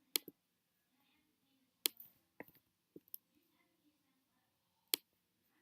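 Computer clicks: a handful of sharp, separate clicks spread over several seconds, with quiet between them.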